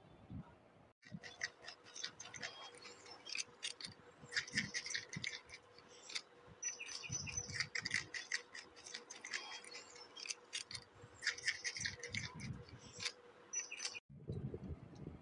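An animal chewing a piece of carrot close to the microphone: rapid, irregular crisp crunching clicks, with a faint steady hum underneath.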